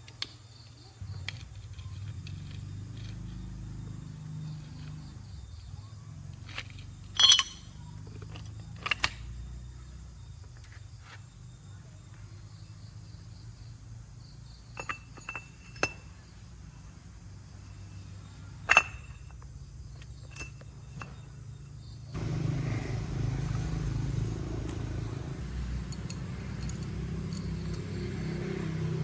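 Metal tools and parts clinking and clanking now and then over a steady low hum; the hum steps up suddenly to a louder rumble about three-quarters of the way through.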